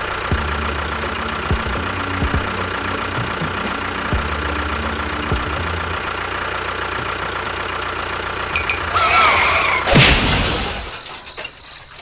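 A small engine running steadily with a knocking rattle. Near the end come some squeaks and a sharp clunk, and then the running dies down.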